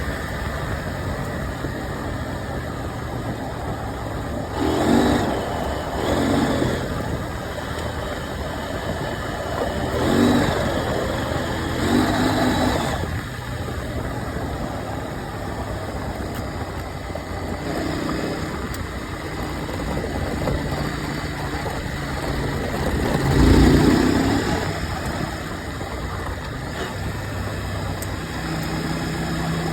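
KTM 790 Adventure's parallel-twin engine running under way, rising in several short surges of throttle, the loudest about 23 seconds in.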